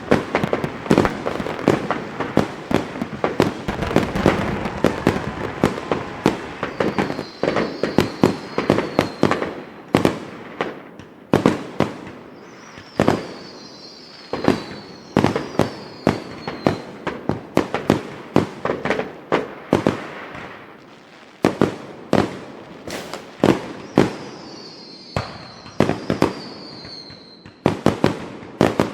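Fireworks going off: a rapid string of sharp bangs and pops, densest in the first half, with several short high whistles falling in pitch between the bangs.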